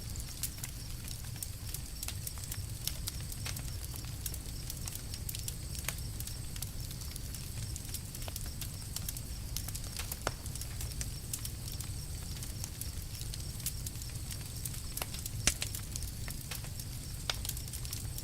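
Campfire crackling: frequent sharp snaps and pops over a steady low rumble, with one louder pop about three-quarters of the way through.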